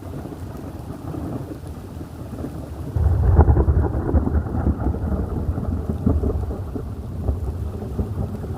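Rain falling steadily, with a crack of thunder breaking about three seconds in and rumbling on as it slowly fades.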